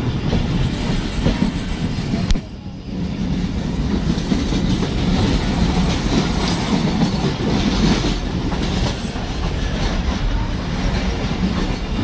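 Steady running noise of the Allama Iqbal Express passenger train in motion, heard from a coach window, with a sharp click and a brief dip in the noise about two seconds in.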